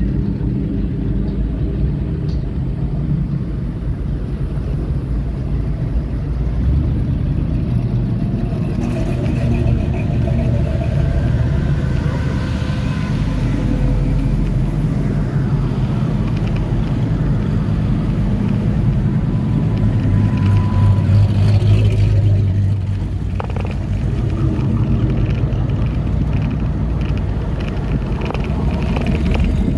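Classic car engine running as it rolls along, a steady low rumble with road noise, swelling louder for a couple of seconds about two-thirds of the way through.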